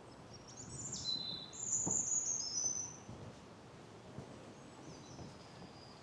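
A songbird singing a high-pitched phrase of quick, mostly falling notes that starts just after the beginning and stops about halfway, with a fainter falling note near the end. Soft footsteps on the path sound a few times underneath.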